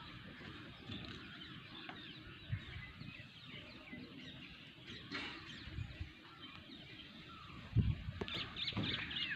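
Birds chirping and twittering continuously, with a few louder low knocks about eight seconds in.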